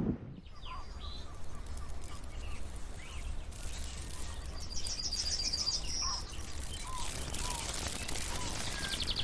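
Wild birds calling: scattered short chirps and a fast trill of high repeated notes about halfway through, with another high trill near the end. A steady low rumble of outdoor background noise runs underneath.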